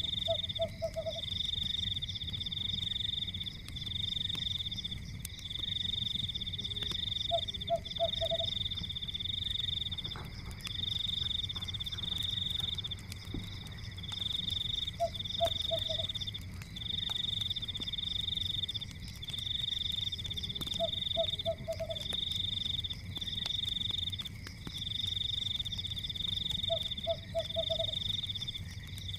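Forest night ambience: a loud, high trilling chorus pulsing in runs of about a second, with a short call of three or four quick notes about every seven seconds. Underneath are a low rumble and faint crackles of a fireplace.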